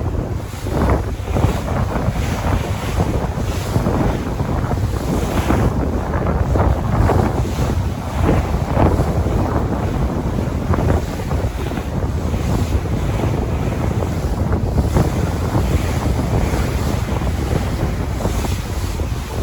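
Sea waves washing and breaking in irregular surges, with wind rumbling on the microphone underneath.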